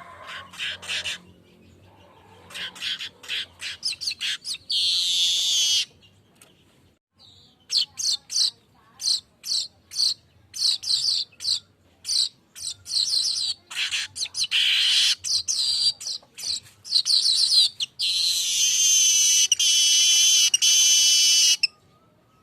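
Asian golden weaver (manyar kepala emas) singing: runs of quick, dry chattering notes broken by short pauses, with long buzzy wheezing phrases, the longest near the end.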